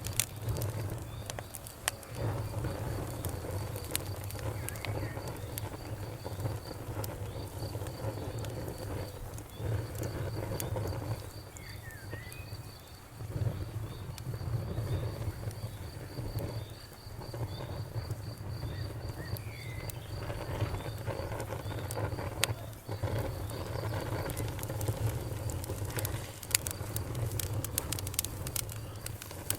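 Wood fire crackling, with irregular sharp pops and snaps over a low, steady rumble of flames. A high, evenly pulsed chirping runs underneath.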